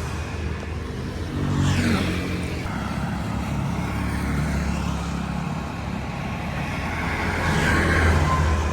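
Street traffic: motor vehicle engines running. One vehicle passes about two seconds in with a falling pitch, and another gets louder near the end.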